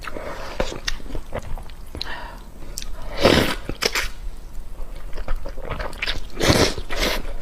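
Close-miked chewing, with many small wet clicks, and two louder noisy bursts of eating sound a little past three seconds in and near the end.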